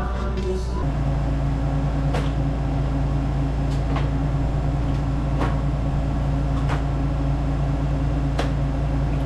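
Rooftop-style HVAC unit's fan and motor running with a steady low hum, with a few light clicks scattered through it.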